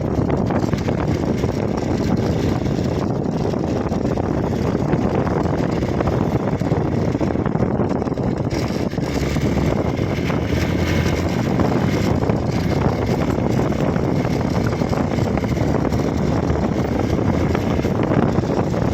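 Hero XPulse motorcycle being ridden, its engine running under steady wind rush on the microphone.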